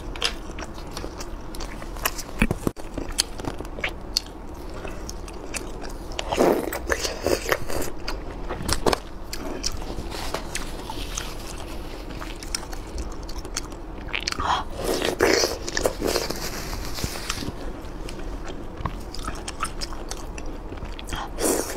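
Close-miked mouth sounds of a person eating saucy, spicy skewered food: steady wet chewing with many small clicks and smacks. There are louder stretches of chewing about six seconds in and again about fifteen seconds in, and a bite near the end.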